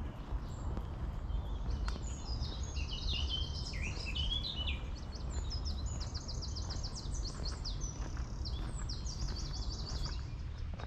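A songbird singing a long run of fast repeated high notes and trills, starting about two seconds in and stopping near the end, over a steady low rumble.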